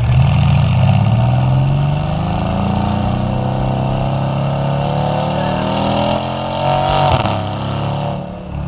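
Mercedes-AMG C63 S's twin-turbo 4.0-litre V8 accelerating hard, its exhaust note rising in pitch over the first few seconds and then holding steady at speed. There is a brief change in the note about seven seconds in, and it eases off near the end.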